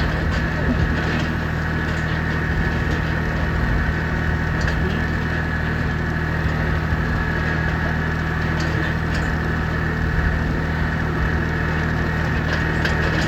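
Tractor engine running steadily at a constant speed, with a few faint clicks over it.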